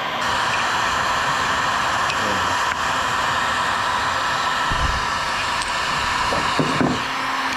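Electric heat gun blowing steadily while heating the engine crankcase so it can be split, with a couple of dull knocks in the second half.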